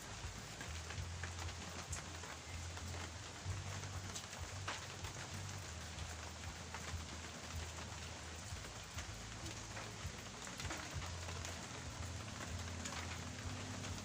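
Steady rain falling and pattering on surfaces, with scattered drop ticks and a low hum underneath.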